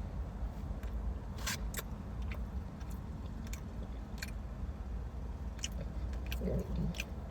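A person chewing a bite of a fried chicken and waffle sandwich, with scattered crisp crunches and wet mouth clicks over a low steady hum.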